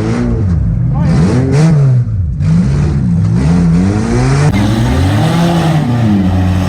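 Demolition derby car engines revving up and down over and over, the pitch swinging about once a second.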